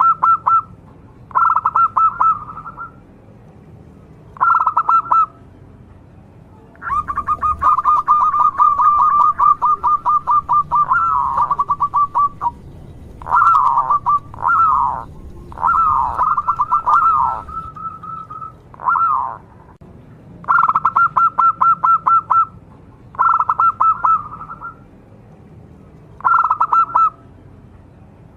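Zebra dove (perkutut) cooing in quick trilled phrases, each about a second long, repeated with short pauses. In the middle comes one long trill and a run of notes that bend up and down.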